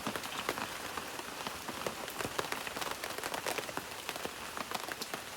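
Steady rain falling, with many individual drops ticking and pattering on surfaces.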